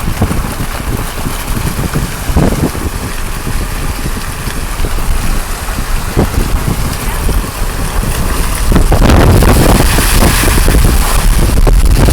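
Wind buffeting the microphone over the rumble of a car driving on the road, in irregular gusts that get louder about nine seconds in.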